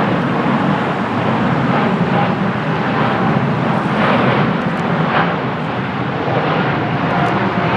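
Boeing 747-8's four GEnx turbofan jet engines at takeoff thrust: a loud, steady roar with a faint whine.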